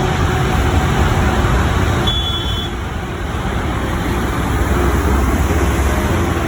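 Jet airliner engines running, a loud steady noise with a deep rumble.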